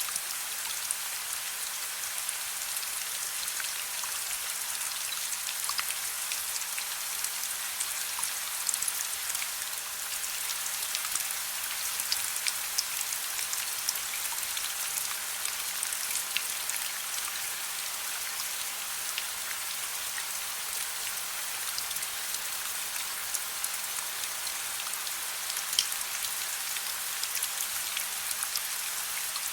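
Steady soft rain: an even hiss of falling rain with many small drops pattering and ticking on a surface.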